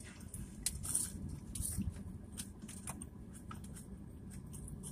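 A man chewing French fries close to the microphone: faint, irregular small clicks and mouth noises over a low steady rumble.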